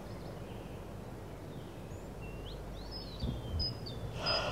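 Quiet morning ambience: a low steady hum with a bird chirping several short, high, gliding calls in the second half. A soft low bump about three seconds in.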